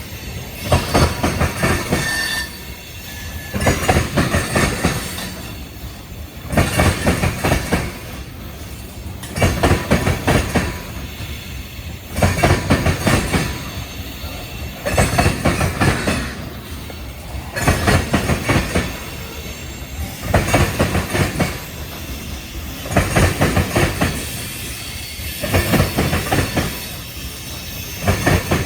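Freight train cars rolling past, their wheels clattering in loud bursts about every two seconds as each car's wheel sets pass over the track, with a steady rumble in between.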